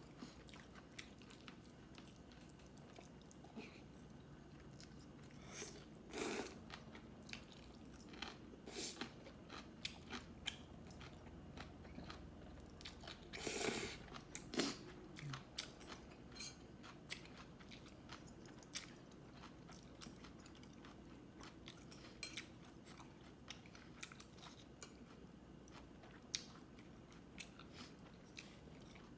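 A person chewing and biting food close to the microphone, with soft mouth clicks throughout and a few louder bites or crunches about six seconds in and again around thirteen to fifteen seconds.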